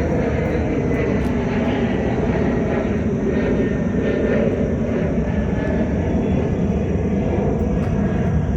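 Airplane engines passing overhead: a steady, loud rumble with a faint high whine.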